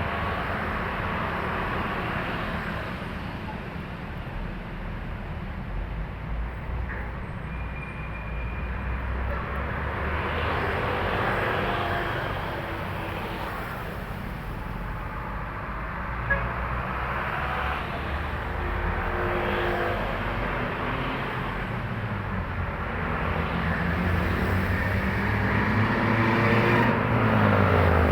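Highway traffic dominated by trucks: diesel engines and tyre noise from a steady stream of heavy vehicles passing. Near the end one passes close and gets louder, its engine note dropping as it goes by.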